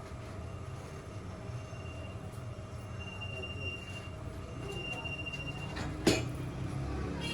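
Metalworking machinery running with a steady low hum and a thin high-pitched metallic squeal for a few seconds, then a single sharp metal clank about six seconds in.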